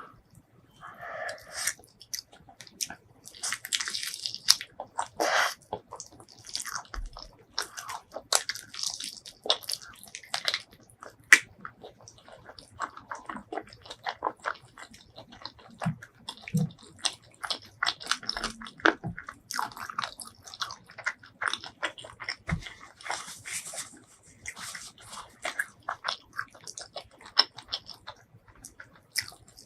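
Close-miked mukbang eating sounds: a person biting and chewing with moist mouth clicks, smacks and occasional crunches, in an irregular run.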